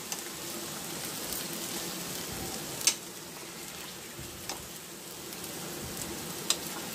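Chicken pieces sizzling steadily in hot oil in a steel pan, with a few sharp clinks of a metal spoon against the pan as pieces are lifted out, the loudest about three seconds in and another near the end.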